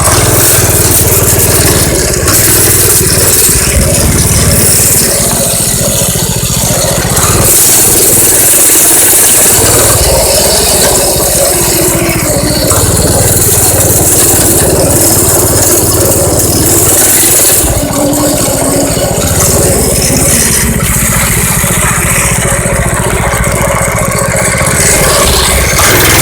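A minibike's small engine running loudly while it is ridden, with rattling and a heavy rushing noise over it. The engine note dips briefly a few times.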